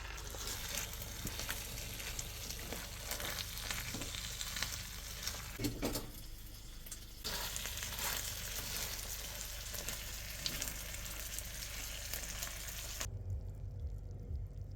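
Country ribs sizzling and crackling in a hot pan, cutting off suddenly about a second and a half before the end.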